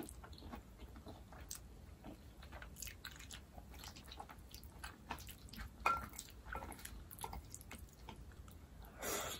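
Close-up chewing of vegan jajangmyeon: soft, wet mouth clicks and smacks as noodles and black bean sauce are chewed, with a sharper click about six seconds in and a short, louder noisy sound near the end.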